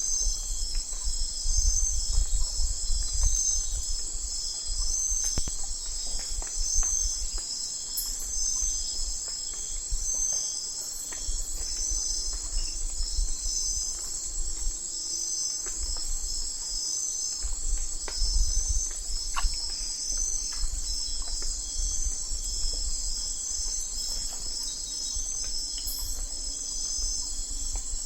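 Night chorus of crickets and other insects: a dense, steady high chirring with pulsing trills, over a low rumble that comes and goes.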